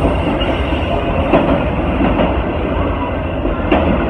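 Freight train of autorack cars passing close at speed: a steady rumble of steel wheels on rail, with two sharp clacks as wheels cross rail joints.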